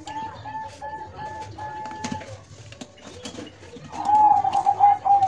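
Dove cooing: a run of short, even notes, about three a second, that stops about two seconds in. A louder, rapidly trilled bird call starts about four seconds in.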